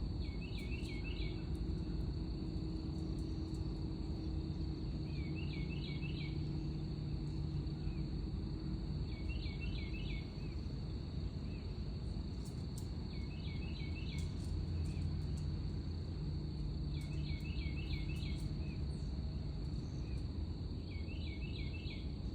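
Outdoor insect chorus, with crickets or similar insects keeping up a steady high drone. Over it comes a short burst of several quick chirping notes about every four seconds, and a steady low rumble sits underneath.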